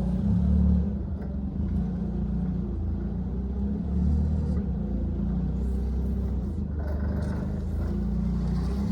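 Nissan forklift engine running, with its sound swelling a little a couple of times as it works.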